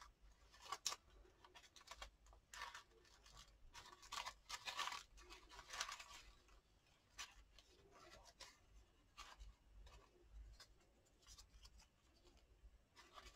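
Faint, scattered rustling and light ticks of paper being handled while small paper butterfly cut-outs are searched through.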